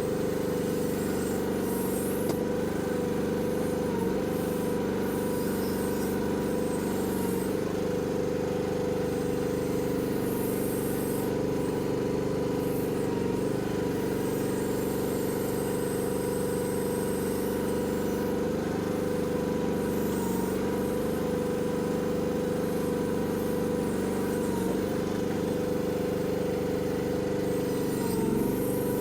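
Mini excavator's engine running steadily under work, holding a constant pitch, with a few light clanks.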